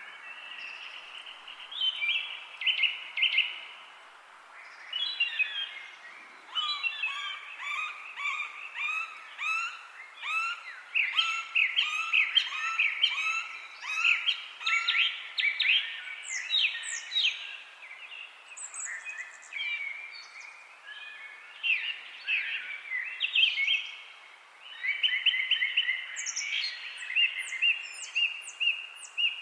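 Several birds chirping and singing in overlapping phrases of quick, high chirps and trills, busiest through the middle and again near the end, over a faint steady background hiss.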